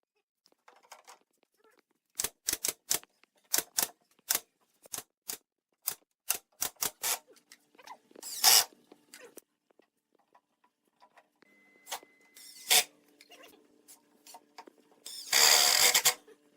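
Workshop work sounds: a quick run of light taps and knocks, then a short burst of noise, a single knock over a faint steady hum, and a louder burst of noise about a second long near the end.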